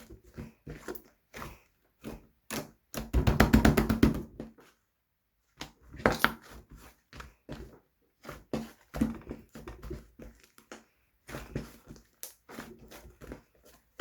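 Pink slime being squished and pressed by hand: a string of small sticky pops and clicks, with a dense, rapid run of crackling clicks from about three seconds in, then a short pause before the popping resumes.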